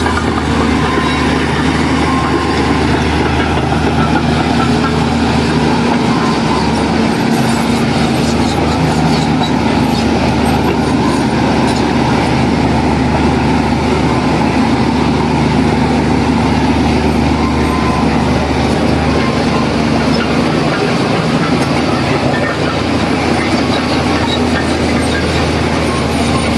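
Heavy diesel earthmoving machinery running steadily under load, a constant low engine drone with a continuous mechanical rattle.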